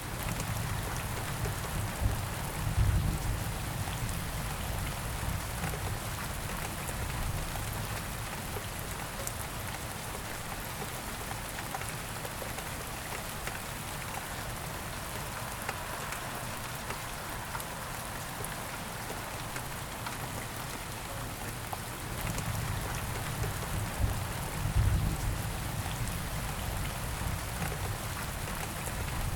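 Steady rain falling on a surface, a dense even patter. A low rumble swells up twice, about three seconds in and again about twenty-five seconds in.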